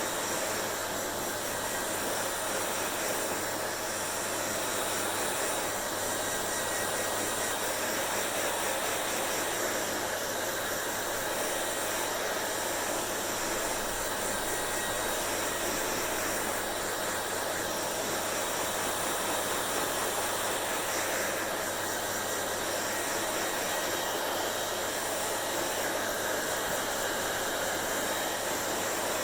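Hair dryer running continuously: a steady blowing rush with a low motor hum underneath.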